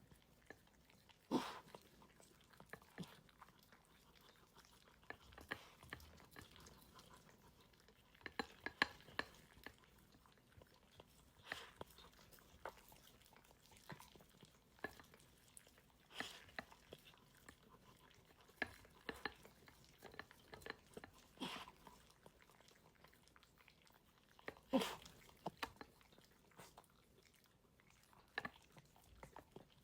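A dog eating from its bowl: scattered crunches and clicks of chewing kibble and of food and bowl being knocked about, a few every few seconds, over a quiet room.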